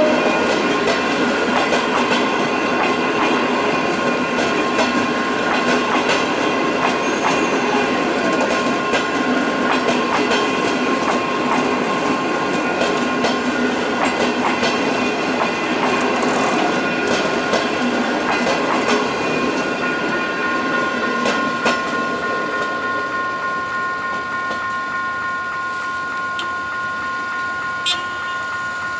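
Passenger train coaches rolling past close by: continuous wheel-on-rail rumble with clickety-clack over the rail joints, with steady high-pitched tones running underneath. The noise slowly fades over the last third as the final coach pulls away, with a couple of sharp clicks near the end.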